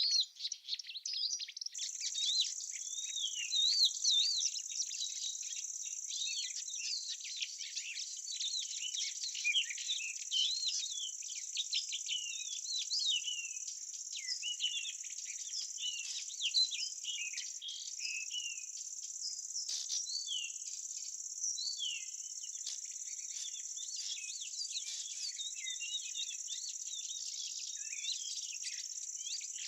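A steady high insect trill with many small birds chirping and twittering busily over it. The trill drops out for a moment right at the start.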